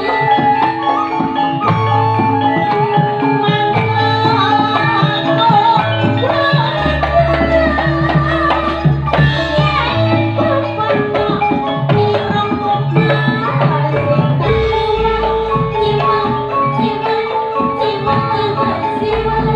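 Campursari music playing steadily: an instrumental passage of Javanese-style hand drumming and struck metal keys over held melodic notes and a moving bass line.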